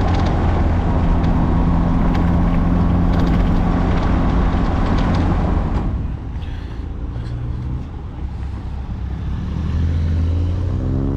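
Morgan sports car engine heard onboard, pulling hard at a steady note, then dropping away suddenly about halfway as the throttle is lifted, and rising in pitch again near the end as the car accelerates.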